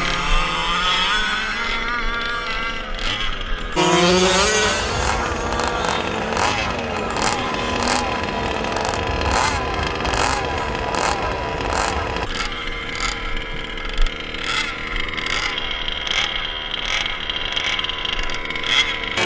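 Small gas engine of a 1/5-scale radio-control truck running under load on a weight-sled pull. About four seconds in it jumps to full throttle, and it then holds at high revs with a wavering pitch.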